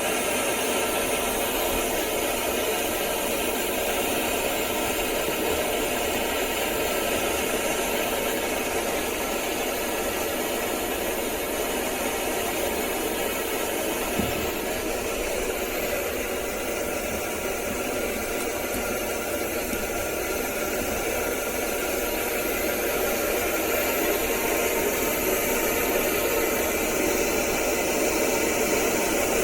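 Stove burner, its core fitted with a 6 mm flared copper tube, burning with a steady rushing flame noise: the flame is stable, with no flame leaking around the burner. A single small tick sounds about halfway through.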